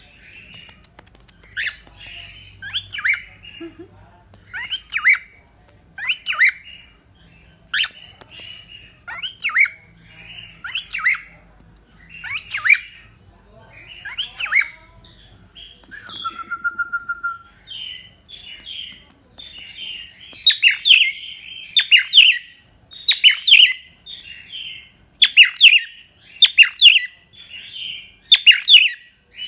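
Cockatiel calling: a run of short, repeated chirping calls with one brief steady whistle partway through. The calls come faster and louder from about twenty seconds in.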